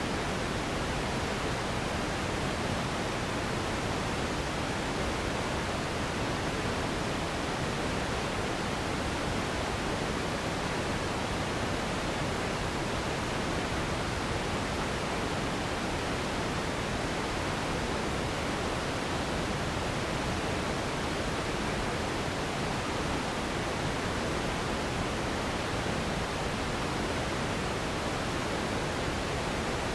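Steady, unchanging sleep noise of the pink-noise kind: an even hiss, fuller in the lows and thinning toward the highs, with no changes or events.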